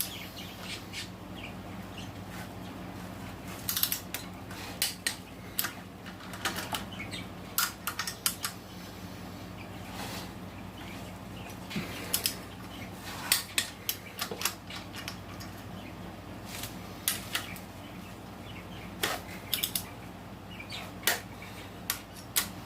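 Ratchet of a click-type torque wrench clicking in short, irregular runs as engine bolts are brought up to 20 of torque, over a steady low hum.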